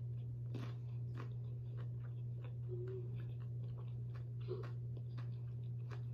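Close-up chewing and crunching of raw cucumber: irregular crisp crunches and mouth sounds, over a steady low hum.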